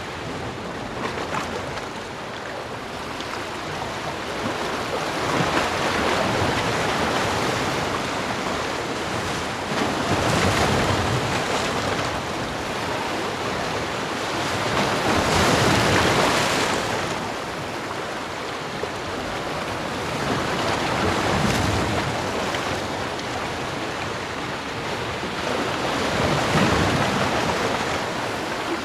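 Ocean waves breaking and washing onto a beach, the surf swelling and easing about every five seconds.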